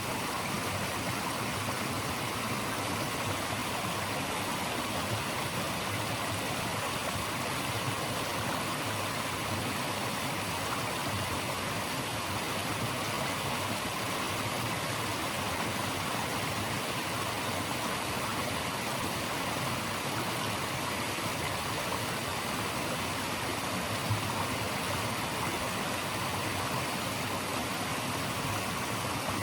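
Rushing stream water, a steady, even hiss that does not change.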